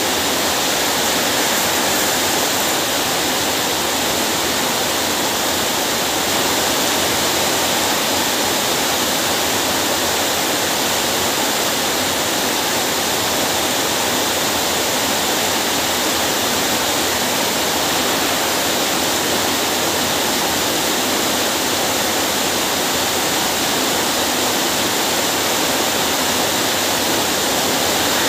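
Steady heavy rain falling on a concrete patio and large plant leaves, an even hiss with no breaks.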